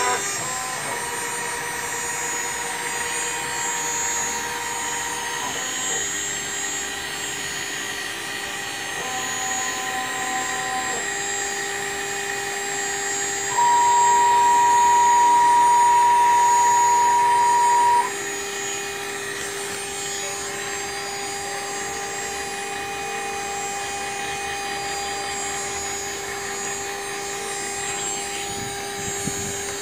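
CNC router engraving. The spindle gives a steady whine, and the stepper-motor tones jump between pitches every few seconds as the axes change speed and direction. Midway, one louder, higher tone holds for about four seconds.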